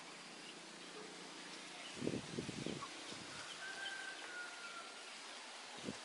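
Outdoor natural ambience with faint scattered bird chirps and one thin, drawn-out whistle that sags slightly in pitch a little past halfway. A few low thumps about two seconds in are the loudest sounds, with another just before the end.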